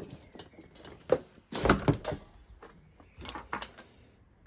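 A few knocks and clunks of hard objects being handled and set down, the heaviest about one and a half seconds in, with lighter clicks a little after three seconds.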